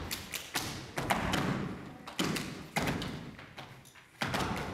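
A series of irregular heavy thumps, about five, each dying away with a short echo as in a hall.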